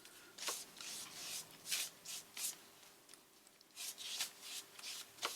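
Collage paper being rubbed and smoothed down onto a glued journal page: a dozen or so short, soft rubbing strokes, with a lull in the middle.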